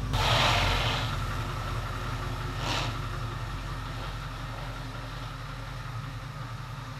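An LQ4 6.0-litre V8 in an LS-swapped Nova running with a steady low rumble. A rush of noise comes in the first second and again briefly at about three seconds in.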